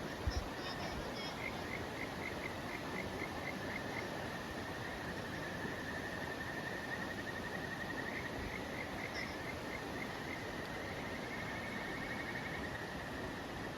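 Insects calling: a steady high trill, with runs of quick repeated chirps over it, against a steady hiss of background noise.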